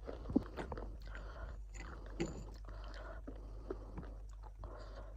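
Someone chewing crunchy food close to the microphone: a run of irregular crisp crunches, with sharper bites about half a second in and about two seconds in.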